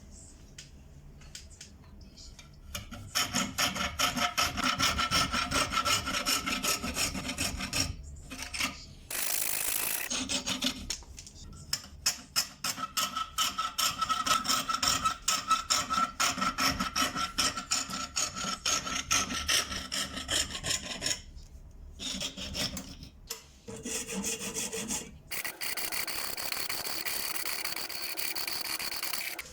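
Hand filing: rapid rasping strokes of an abrasive on a hard piece of the pendant's material, in several long bouts. Near the end there is a steadier scraping with a faint whine.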